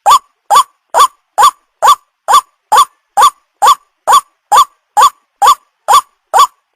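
White-breasted waterhen calls used as a bird lure: a short rising note repeated evenly about twice a second.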